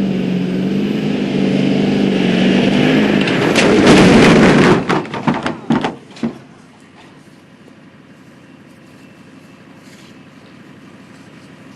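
Chevy Duramax diesel pickup's engine running hard and getting louder, then a heavy landing impact about four seconds in followed by several clattering knocks and bangs that die away within two seconds. It is a hard landing from a jump that buckled the truck and sheared parts. After it only a faint outdoor hush remains.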